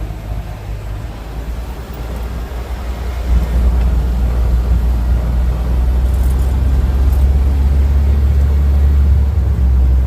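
Low, steady engine drone from the vehicle being ridden in, growing louder about three seconds in and holding there.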